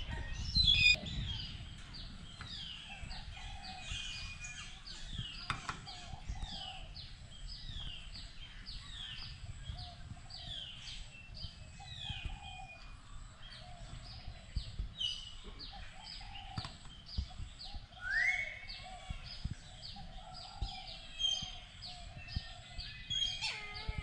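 Birds calling: a continuous run of short, high chirps, each falling in pitch, over lower calls, with one louder rising call about eighteen seconds in.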